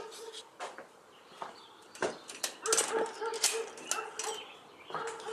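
A dog whining in short held high tones, on and off, with scattered sharp clicks and knocks.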